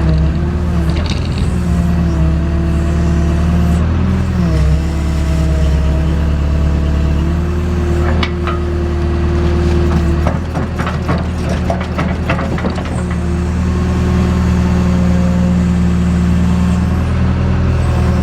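JCB backhoe's diesel engine running steadily under hydraulic load while digging, its pitch dipping and recovering about four to five seconds in and shifting again around ten seconds. A run of metallic clanks and knocks from the bucket and boom comes in the middle.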